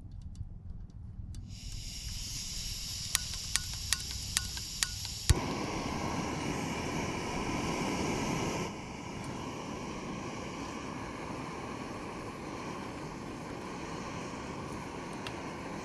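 Portable camping gas stove being lit: gas hisses from the opened valve, the piezo igniter clicks about six times, and the burner catches with a sudden steady roar. A few seconds later the roar settles to a lower, even hiss.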